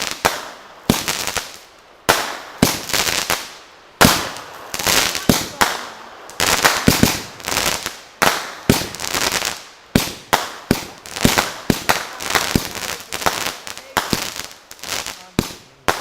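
Consumer fireworks going off: rapid volleys of sharp bangs and crackling, coming in clusters every second or two.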